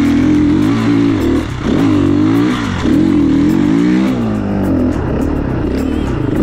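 Enduro motorcycle engine revving hard under full throttle, its pitch rising and falling several times as the throttle is worked.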